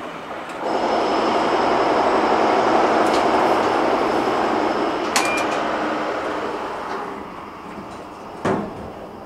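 A train passing close by: a loud, steady rush of rail noise swells up about half a second in, carries a faint high steady whine, and fades away over the last few seconds. Near the end there is a single short knock.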